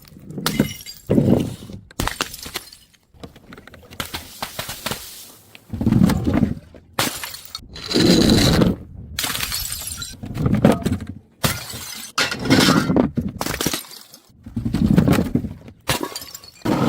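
Glass bottles smashing and shattering, a series of loud crashes about every second or two.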